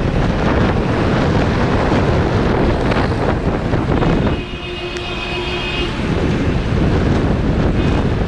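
Wind buffeting the microphone over the rumble of a moving vehicle on a wet road. A horn sounds for about a second and a half around the middle, and a shorter horn toots near the end.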